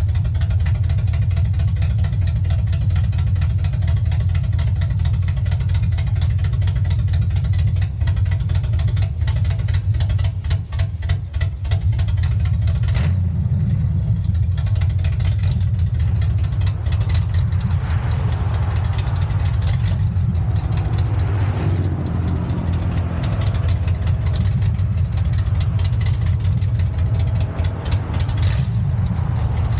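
Vehicle engine running steadily with a deep, low rumble, with a few clicks and knocks partway through and a pitch that rises and falls in the middle.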